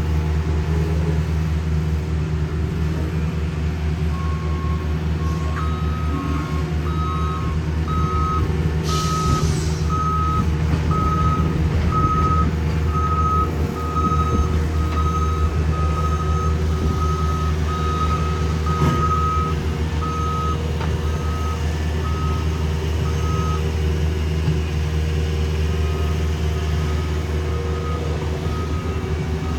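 Heavy diesel road-paving equipment running steadily with a backup alarm beeping about once a second as a machine reverses. The beeping starts a few seconds in, stops for a couple of seconds near the end, then resumes. A short hiss comes about nine seconds in.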